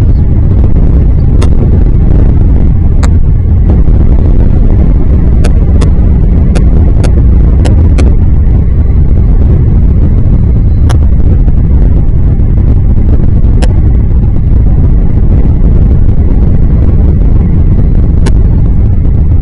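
Loud, steady low rumble of wind buffeting the microphone, with a dozen or so sharp clicks scattered irregularly through it.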